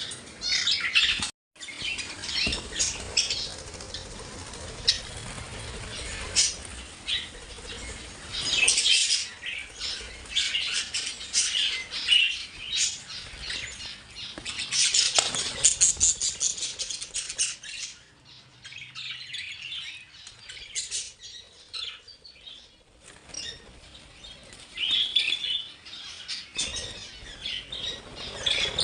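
Many caged small parrots chattering, with dense, irregular squawks and chirps; the calls thin out for a few seconds past the middle.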